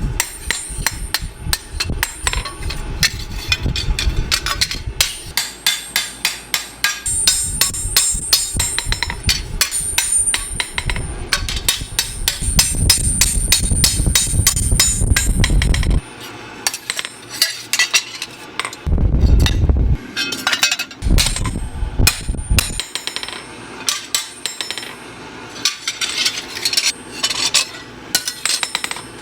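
Hand-hammer blows on metal, many quick irregular strikes in fabrication work, over a low machine rumble that stops about halfway through and comes back in two short spells.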